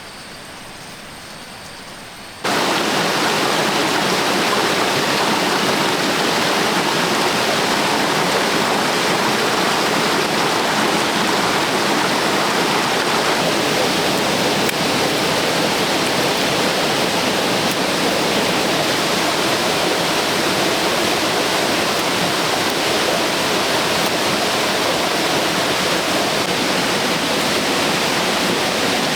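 Steady rushing water, a dense even noise, cutting in abruptly about two seconds in after a quieter stretch of outdoor ambience.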